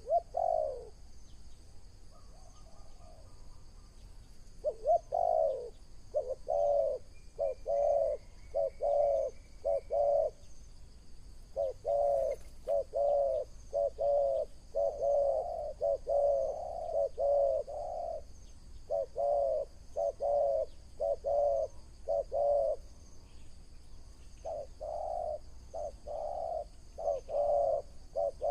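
Wild dove cooing in long runs of short, low notes, about two a second, broken by a few brief pauses. Faint higher calls of other birds are heard once or twice.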